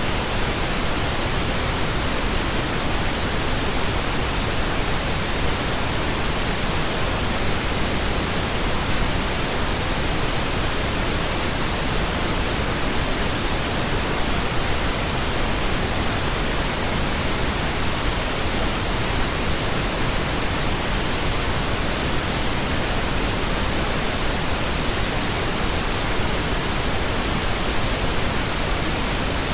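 Steady pink noise: an even hiss that does not change.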